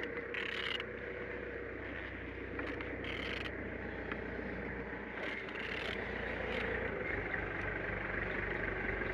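A used engine being turned over by hand with a wrench, the crank rotating with three short rasping strokes about two and a half seconds apart over a steady low hum. The engine turns freely, a sign it is not seized.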